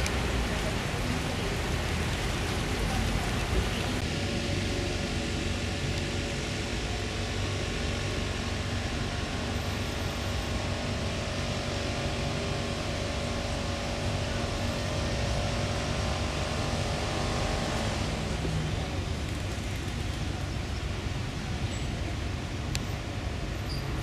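Steady motor vehicle running noise, with a faint hum that holds steady for a while in the middle.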